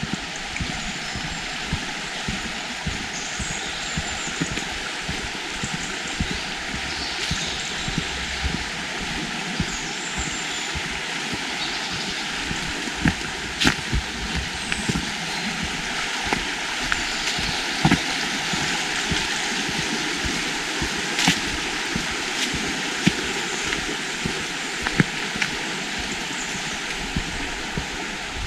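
Flowing water rushing steadily, with scattered sharp clicks over it, more of them in the second half.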